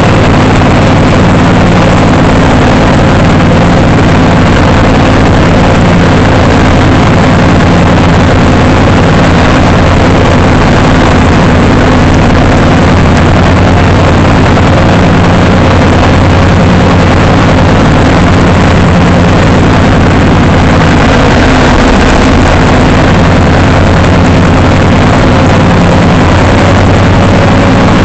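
Loud engine running steadily at a constant speed, with no revving.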